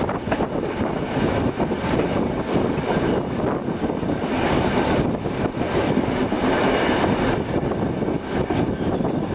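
Moving train heard from aboard a wooden goods wagon: steady rumble of wheels on rail with irregular clicks and clatter from the rails and wagon, and a brief rise in hiss about six seconds in.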